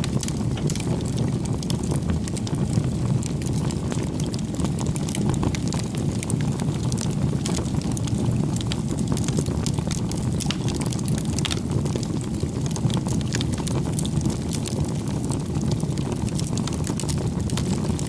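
Campfire burning: a steady low rush of flames with frequent small crackles and pops from the burning wood.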